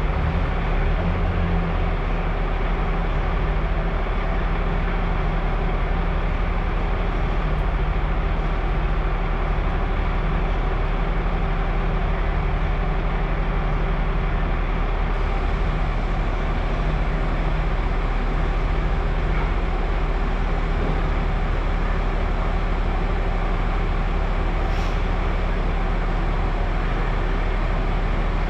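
Heavy machinery running steadily, with a constant low hum and an even mechanical drone that does not change.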